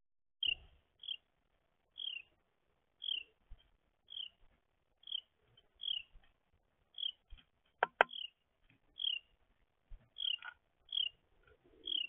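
A bird calling a short, falling note about once a second, with softer notes between, and two sharp knocks about eight seconds in.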